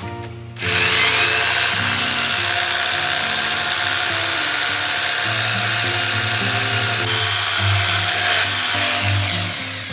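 A handheld power tool starts about half a second in, runs steadily at speed for about nine seconds, then trails off near the end. Background music plays underneath.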